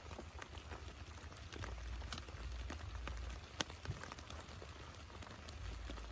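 Rain falling, with irregular sharp ticks of single drops hitting a surface over a faint hiss and a low rumble underneath.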